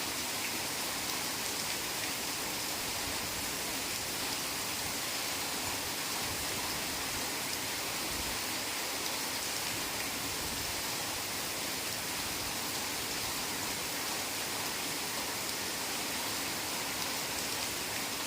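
Heavy rain falling steadily in a forest, an even hiss of countless drops with no single drop standing out.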